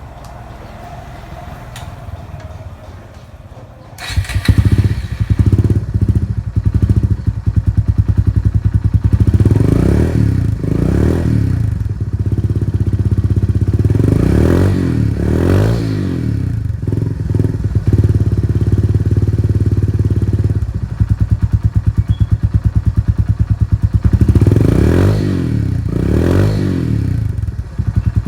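Kawasaki W175's single-cylinder engine through a custom free-flow exhaust. It fires up about four seconds in, then idles with a lumpy, pulsing beat. It is revved in quick pairs of blips three times.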